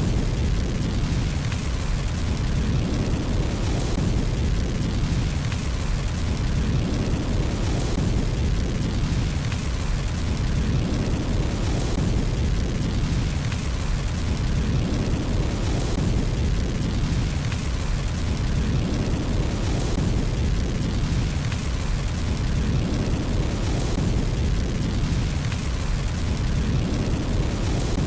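Fire burning in a fireplace: a steady low rumble with scattered faint crackles, the same pattern coming round about every four seconds.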